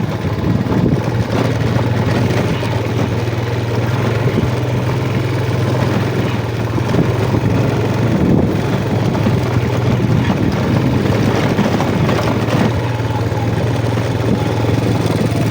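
Yamaha Jupiter MX single-cylinder motorcycle engine running steadily at low, even revs while the bike is ridden slowly over a muddy off-road track, with scattered knocks and rattles.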